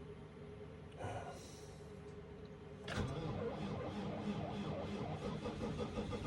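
Starter cranking the cold New Holland diesel tractor engine, beginning suddenly about three seconds in and turning it over steadily without it catching yet. The engine is at about 11 below zero, with a battery the owner doubts can start it.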